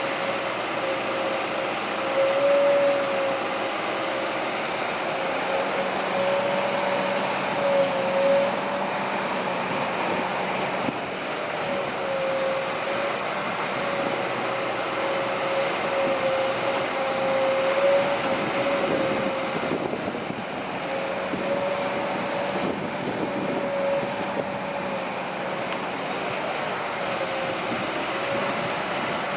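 Kobelco SK200-8 hydraulic excavator working, running steadily with a whine that wavers slightly in pitch, and a few brief louder moments about two and a half and eight seconds in.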